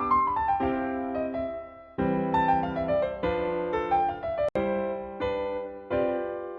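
Background keyboard music in a piano tone: sustained chords restruck about once a second, with runs of notes stepping downward near the start and again in the middle.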